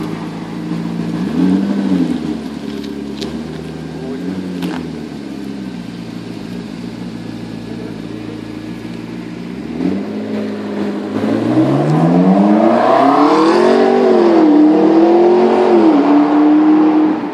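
McLaren MP4-12C's twin-turbo V8 idling with two short revs in the first few seconds. From about ten seconds in it accelerates hard, its pitch climbing and dipping twice as it changes up through the gears.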